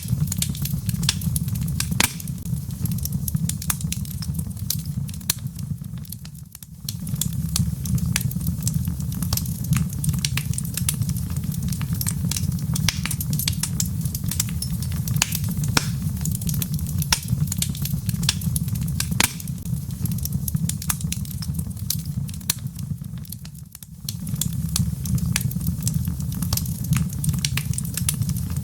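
Log fire crackling in a fireplace: frequent sharp pops and snaps over a low steady rumble, the whole sound dipping briefly twice.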